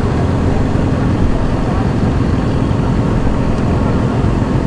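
Steady, loud rumble of a motorcycle running with wind rushing over the microphone while riding.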